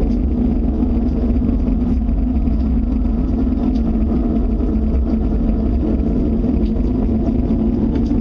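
A loud, steady low rumbling drone with a constant hum-like tone in it, unchanging throughout: one of the so-called unexplained 'strange earth sounds'.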